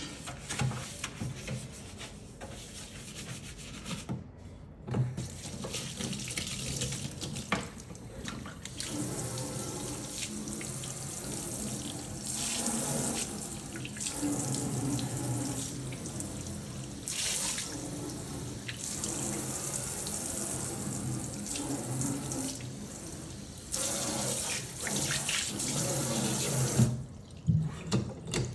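Water from the kitchen faucet running into the sink and down the drain, flushing it, with the flow shifting in strength from time to time.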